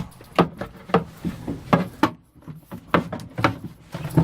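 A wooden cabinet door being unlatched and opened, giving a string of irregular wooden knocks and clunks.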